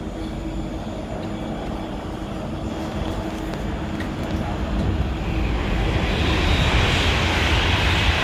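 A train's running noise at the platform, a low rumble with a hiss that swells noticeably louder from about five seconds in.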